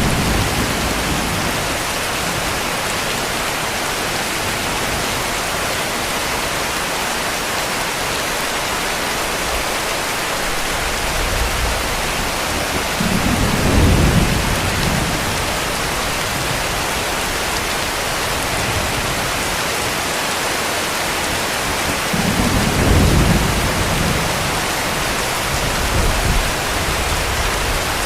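Heavy rain falling with a steady hiss, and distant thunder rumbling twice, about halfway through and again near the end.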